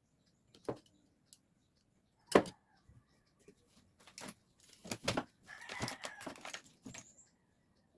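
Scattered sharp clicks and knocks of small carburetor parts and tools being handled on a workbench, the loudest about two and a half seconds in, with a denser, noisier stretch of handling near the end.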